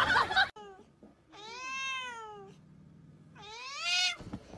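Domestic tabby cat giving a short call, then two drawn-out meows, each rising and then falling in pitch, a little over a second apart. Before them, a loud snatch of music cuts off suddenly about half a second in.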